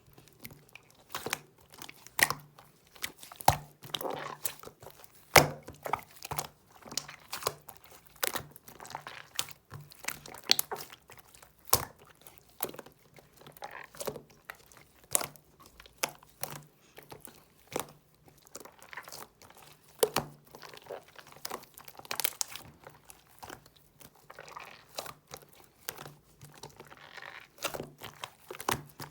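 Slime being mixed and kneaded by hand, giving irregular sharp clicks and crackles, several a second, over a faint steady low hum.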